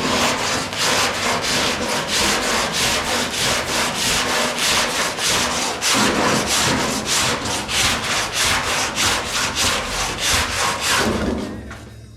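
Sandpaper being worked by hand over the filler-covered steel body of a 1969 Dodge Charger, in fast, even back-and-forth strokes. The strokes stop near the end.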